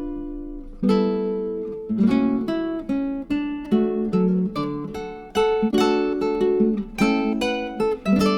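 Background music: acoustic guitar strumming and picking chords, each struck chord ringing out and fading before the next.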